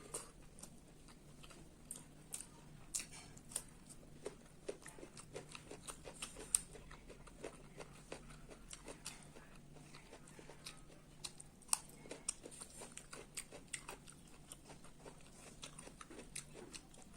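A person eating close to the microphone: quiet chewing with many small, irregular mouth clicks and smacks.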